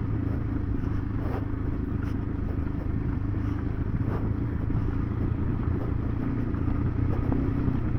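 KTM 390 Adventure's single-cylinder engine running steadily at an even pace while under way off-road, with a few faint knocks.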